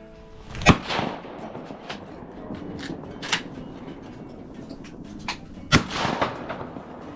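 Two close shotgun blasts about five seconds apart, each with a short ringing tail, with a few fainter sharp cracks between them.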